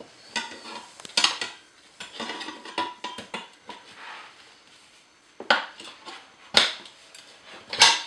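Metal tire irons clinking and scraping against a motorcycle wheel rim while they lever the tire bead over the rim edge. There are irregular sharp metallic clinks, the loudest three coming in the second half.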